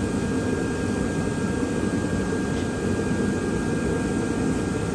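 Steady fan-like rushing hum, low and even, with a faint thin whine above it.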